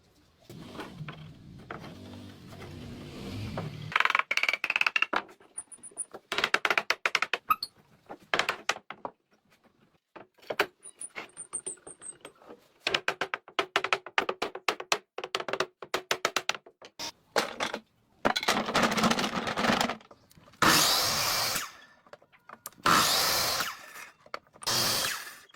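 Woodworking on wood: clusters of rapid clicks and taps, then several short bursts of a power tool.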